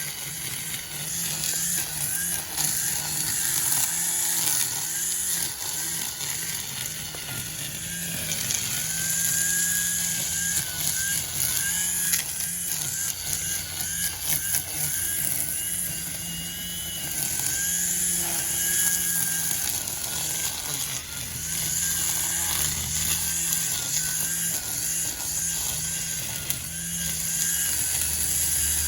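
String trimmer running at high speed while cutting grass, its motor note wavering up and down as the throttle and load change.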